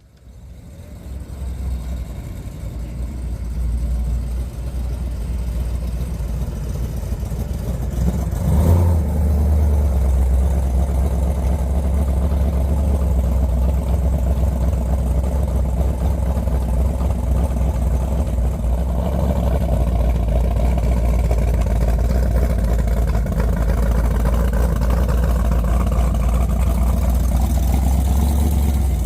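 Car engine running steadily, fading up over the first few seconds to a loud, steady low rumble, with a single knock about nine seconds in.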